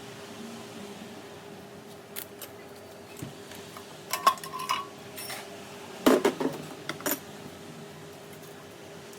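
Metal tools and engine parts clinking and knocking during engine teardown: a few scattered clicks, a cluster of knocks with a short metallic ring about four seconds in, and the loudest clatter about six seconds in, over a steady hum.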